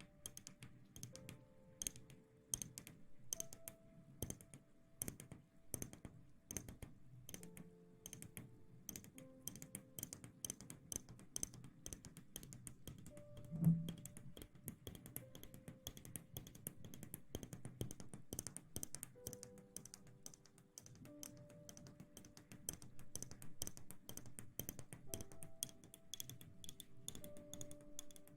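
Close-miked ASMR rustling and scratching: fast, crisp crackles and taps right at the microphone, over soft background music with long held notes. One louder low thump comes about halfway through.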